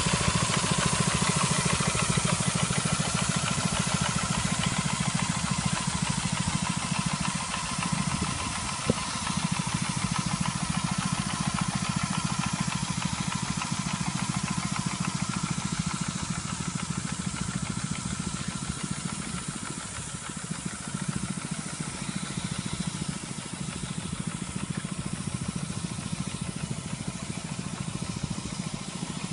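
Runway line-marking machine's engine running steadily, with a continuous hiss of paint being sprayed, and one sharp click about nine seconds in.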